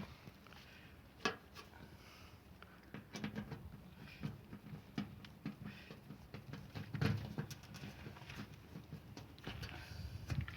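Scattered clicks and knocks with rustling handling noise as a washing machine's door-lock assembly is worked back into place by hand, a cluster of louder knocks about seven seconds in.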